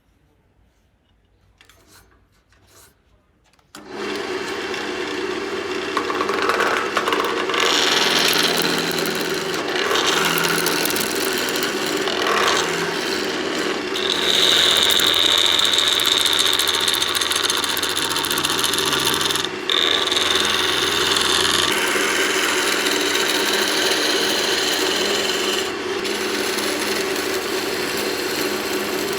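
A few faint clicks, then about four seconds in an electric abrasive machine starts. Its motor runs with a steady hum, and the grinding noise of work held against the abrasive swells and eases, with a bright high whine for several seconds in the middle.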